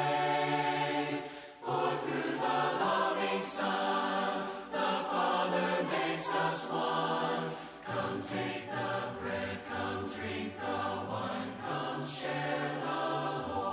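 Group of voices singing a hymn unaccompanied in four-part harmony, holding chords that change every second or so.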